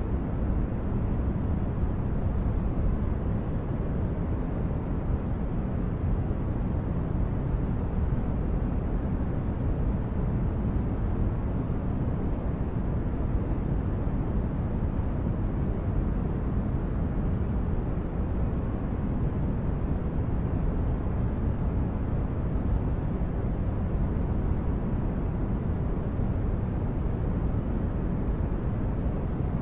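Synthetic spaceship ambience: a steady, deep rumbling noise like brown noise, with no changes or events.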